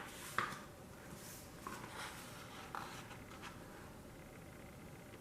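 Faint paper rustling and a few soft clicks of a picture book's page being turned, then quiet room tone.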